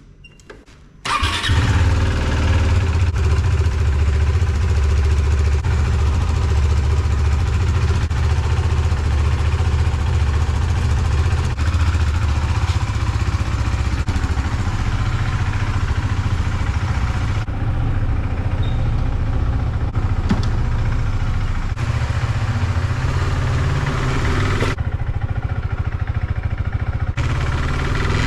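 KTM RC390's single-cylinder engine starting about a second in, then idling steadily.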